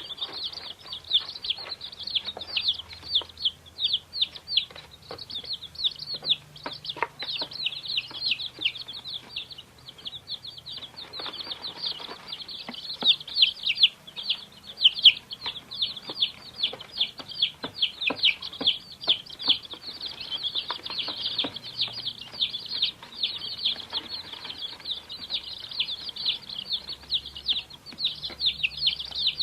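Many baby chicks peeping at once: a dense, continuous chorus of short, high, mostly downward-falling cheeps, overlapping each other.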